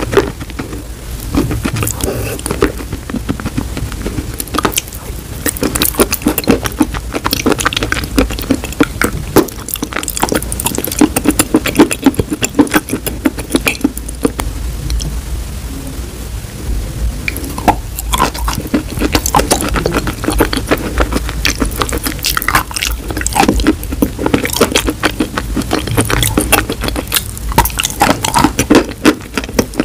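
Close-miked biting and chewing of wet chalk coated in chalk paste: a dense, irregular run of wet crunches and clicks.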